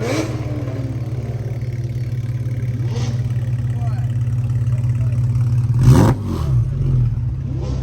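Sports car engine idling through a titanium exhaust with a fast, burbling pulse, then one sharp rev blip about six seconds in that quickly falls back to idle.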